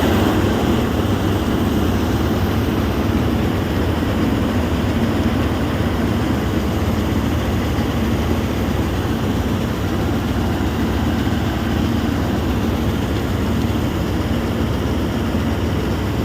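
Heavy farm machinery engine running steadily under load, a continuous low drone with no change in speed.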